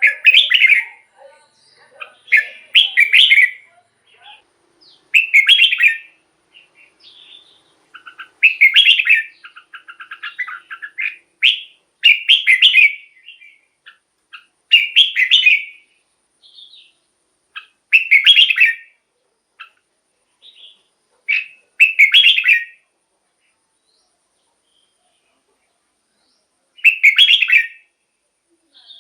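Red-whiskered bulbul singing: about ten short, loud song phrases of roughly a second each, separated by pauses, with a longer pause near the end.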